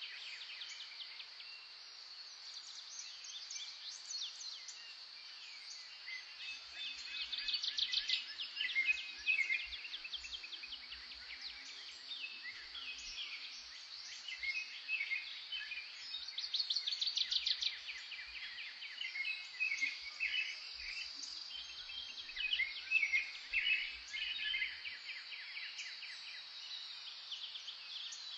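Several wild birds singing and calling over one another, with quick chirps and trills that come in louder clusters, over a steady high-pitched buzz.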